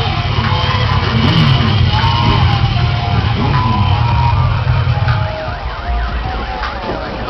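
Siren-like wailing and sweeping tones over a loud, steady low bass; the bass drops away about five seconds in.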